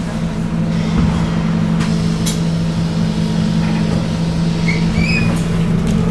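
Inside a Scania N280UD double-decker bus: its Scania OC09 9.0-litre biogas engine running at a steady speed, with scattered clicks and rattles from the body.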